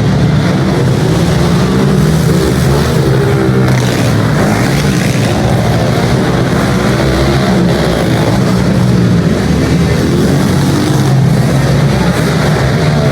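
Pit bike engines running hard in a race, revving up and down with throttle changes and overlapping one another.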